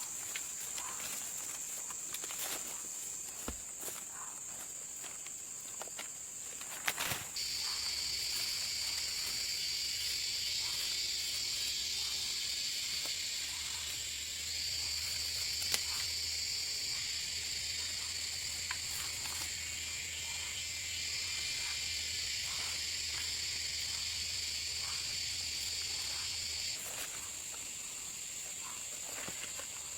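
Forest insects calling: a steady high-pitched trill throughout, joined about seven seconds in by a second, louder buzzing insect that cuts off a few seconds before the end. A few faint clicks and rustles come through over it.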